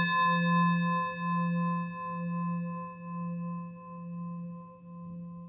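Singing bowl ringing on after a single strike, its low hum pulsing slowly, about one and a half times a second, as it fades away.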